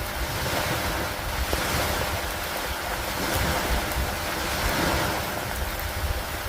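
Steady rain on a lake with water washing against an old wooden dock: a dense, constant hiss that swells and ebbs every two to three seconds, over a steady low rumble.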